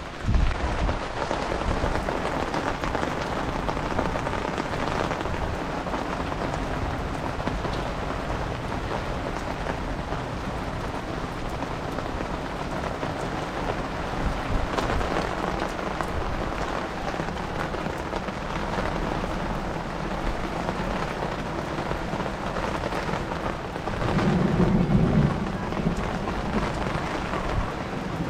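Heavy rain falling steadily, a dense, even hiss of drops on hard surfaces. Near the end a louder low rumble rises for a second or two over the rain.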